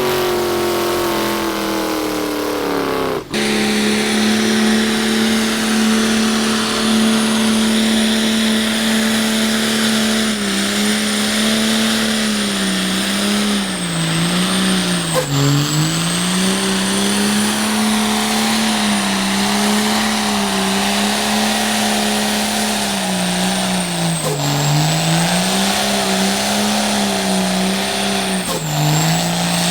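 Diesel truck engine held at high revs, its note steady for long stretches with a few brief dips where the throttle eases and then comes back, a thin high whistle running above it. About three seconds in, a falling rev cuts off suddenly and the sustained high-rev note begins.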